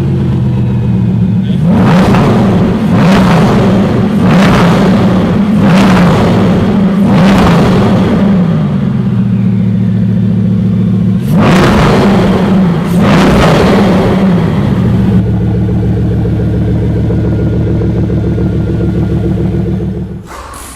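Bugatti Veyron Grand Sport Vitesse's 8-litre W16 quad-turbo engine, breathing through a Quicksilver titanium exhaust, idling and being blipped: a series of sharp revs over the first dozen seconds, each falling back to idle. After that it settles into a steady idle for the last few seconds.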